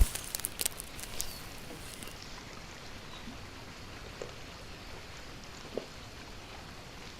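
Steady outdoor background hiss, with a sharp click right at the start, a few lighter clicks in the next two seconds and two faint taps later.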